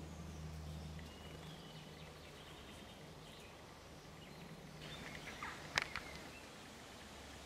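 Faint, scattered bird chirps and calls over a low steady hum, with one sharp click a little before the end.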